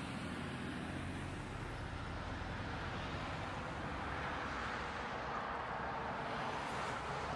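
Steady road noise of a moving vehicle, a low engine hum under tyre and wind noise, swelling slightly in the middle with no impact.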